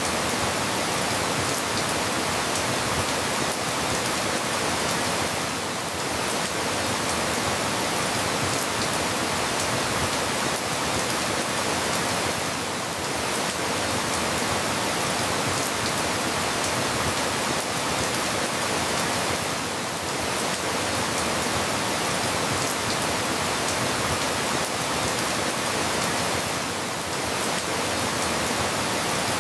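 Steady rain falling, an even hiss of many drops with a slight dip in level about every seven seconds.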